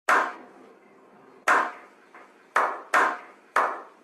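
Five sharp, separate hits, each ringing out briefly: one at the start, one about a second and a half in, then three closer together near the end.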